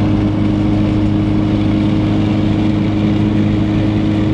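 Car engine running at a steady speed, a steady low drone that holds one pitch throughout.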